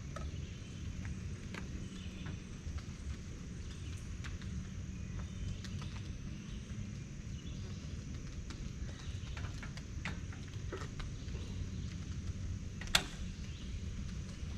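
Outdoor ambience: a steady high insect drone over a low rumble, with scattered faint ticks and one sharp knock about thirteen seconds in.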